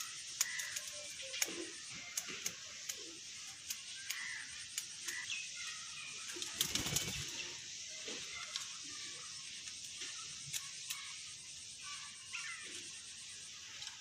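Faint, short bird chirps and scattered light clicks over a steady high hiss, with a brief low rumble about halfway through.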